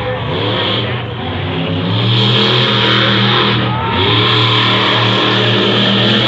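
Battle Axe monster truck's engine revving hard, its pitch rising and falling, getting louder about two seconds in and then staying at high power.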